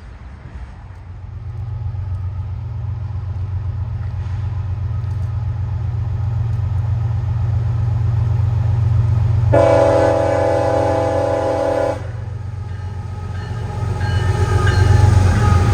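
Approaching train's locomotive rumbling louder, then one long blast of its multi-tone air horn lasting about two and a half seconds, a little over halfway through. Near the end the rumble and rail noise swell again as the train draws close.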